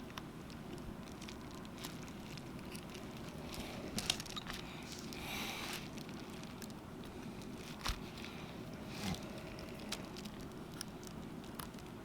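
Faint scattered clicks and small taps from handling a phone and small repair tools, with a short rustle near the middle over a steady low background hum.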